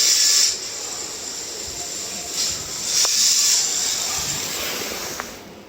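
Mini RC drift car driving, with bursts of high hiss as it throttles up and slides, fading out near the end.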